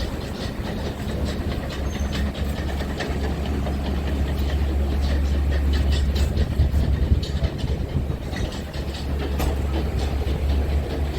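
Scania R450 truck's 13-litre six-cylinder diesel engine running with a steady low drone, with light rattling and clicking over it.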